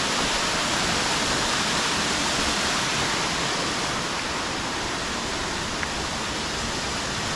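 Steady, even rush of flowing water, the constant noise of a rainforest stream or waterfall.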